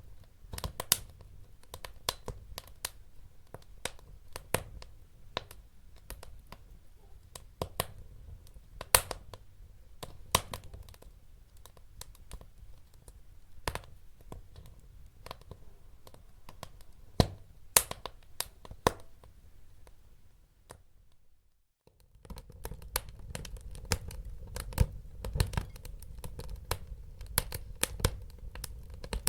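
Wood fire crackling in a fireplace: irregular sharp pops and snaps over a low rumble of burning. About 21 s in it drops out almost to silence for a second or so, then comes back with a fuller rumble and denser crackling.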